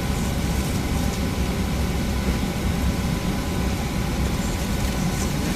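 Steady low rumble and air hiss inside the cabin of a Boeing 737-800 airliner, with a faint steady tone above it.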